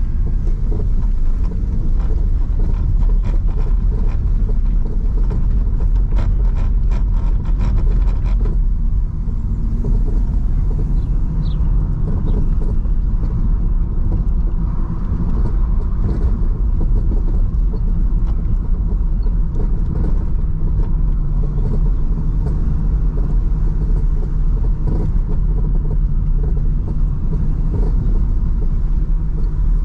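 BMW 316i E46 on the move: four-cylinder petrol engine running with tyre and road rumble, the engine's tone shifting in pitch in the second half. A run of short clicks comes in the first several seconds.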